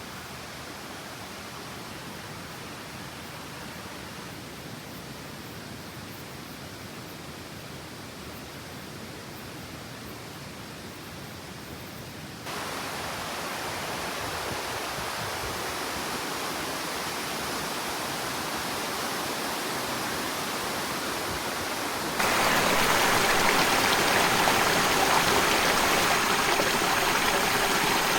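A mountain stream rushing over rocks, as a steady wash of water noise. It jumps suddenly louder about twelve seconds in, and again about twenty-two seconds in.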